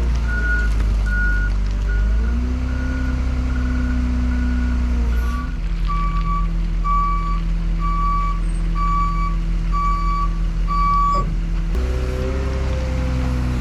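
Heavy vehicle engine running with a backup alarm beeping about twice a second. About halfway through it gives way to a second, lower-pitched backup alarm, which stops near the end.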